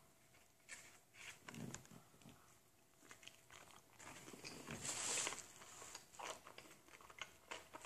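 A person chewing a mouthful of brisket sandwich close to the microphone: soft, wet mouth clicks and smacks, with a brief hiss about five seconds in.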